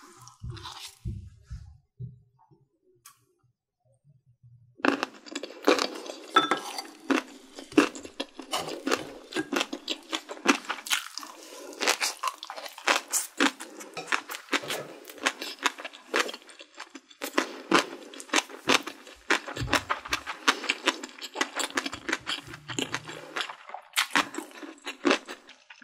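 A person chewing food close to the microphone: a few soft low thumps at first, a short lull, then from about five seconds in a dense, irregular run of wet clicks and crunches.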